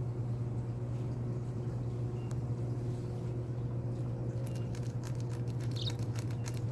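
A pet bird eating pepper and raspberry: a run of quick beak clicks and small crunches starts about two thirds of the way in, with one short high peep near the end. A steady low hum runs underneath throughout.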